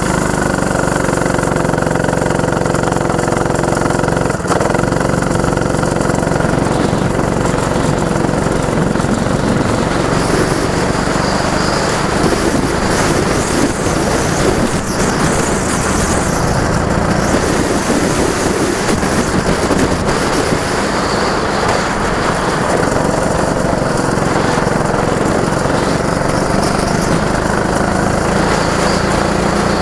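Go-kart engine running and pulling away, loud and steady, its pitch shifting up and down with the throttle and dipping briefly about four seconds in.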